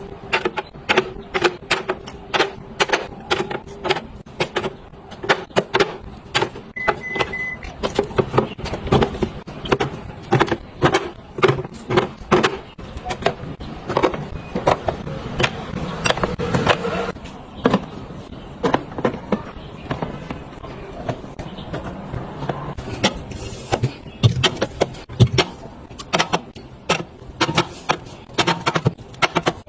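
Containers, bottles and packages being handled and set into a refrigerator: a dense series of clicks, taps and knocks, with a brief high beep about seven seconds in.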